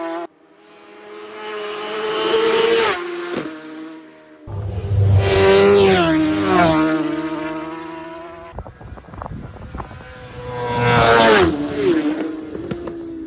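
Superbike racing motorcycles passing at full speed, each high engine note climbing as it approaches and dropping steeply as it goes by. There are three passes, in short clips cut together.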